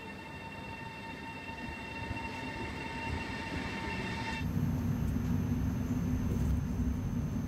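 Pendolino (PKP ED250) electric train pulling in along the platform, its noise growing as it comes close, with a steady high whine. About four seconds in, this gives way to a low steady rumble heard inside the train's carriage.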